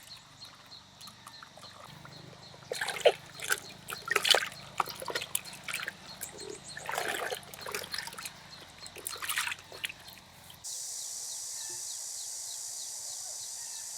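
Water splashing and sloshing in irregular bursts, the loudest around three to four seconds in and again near seven. About eleven seconds in this gives way abruptly to a steady hiss.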